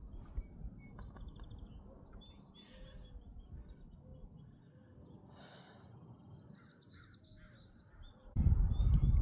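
Small birds chirping faintly, with one rapid trill of repeated high notes a little past halfway. Near the end, a loud low rumbling noise starts abruptly.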